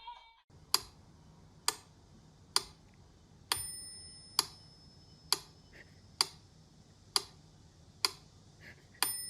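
Regular ticking, about one tick a second, with a short high ringing tone on two of the ticks.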